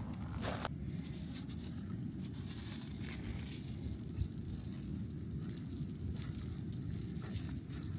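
Steady low rumble of wind on the microphone, with a few crunching footsteps on a beach of shells in the first second.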